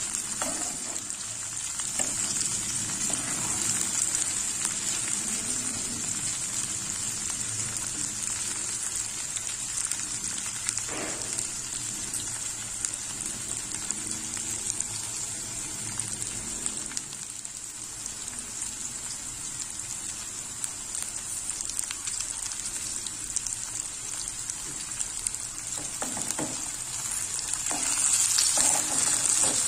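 Cut okra sizzling steadily as it fries in a metal pan, with a metal spatula scraping and stirring through it a few times, more often near the end.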